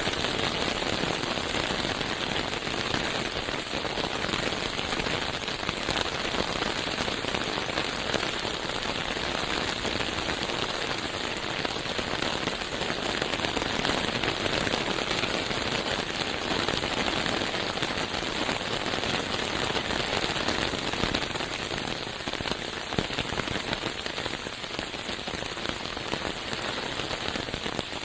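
Steady rain falling through a forest, a dense, even wash of many small drop impacts.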